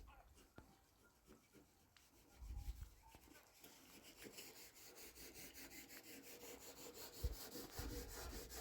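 Fast, even rubbing or scraping strokes, about five a second, that start about halfway through and grow louder toward the end.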